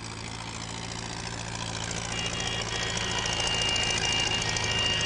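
Heavy vehicle engine running steadily, slowly growing louder, with a thin high whine coming in about two seconds in.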